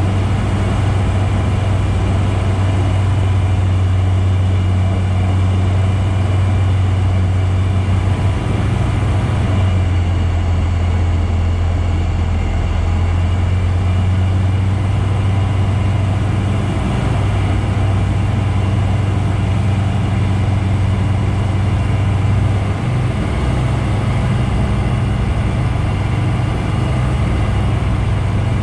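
Bristell light aircraft's piston engine and propeller running with a steady low drone, with small shifts in power during a gusty-wind approach.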